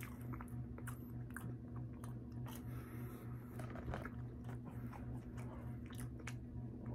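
Close-up chewing and mouth sounds of a person eating wavy-cut french fries, with many small smacks and clicks, over a steady low hum.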